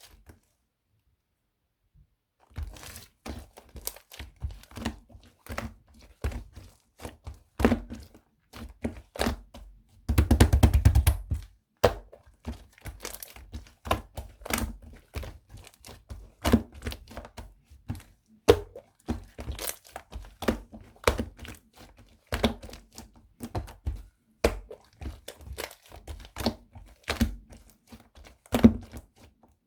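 Slime being pressed and squeezed by hand, giving an uneven run of sharp clicks, crackles and soft thunks. A dense, louder crunching stretch comes about ten seconds in.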